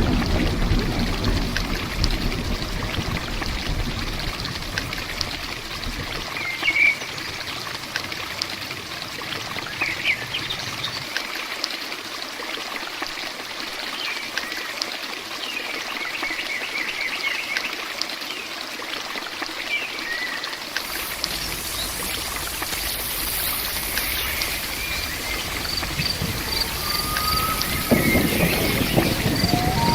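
Steady heavy rain with water running and pouring, and the low rumble of thunder dying away in the first few seconds. Scattered short chirps sound over the rain, and a high, evenly repeated chirping joins in near the end.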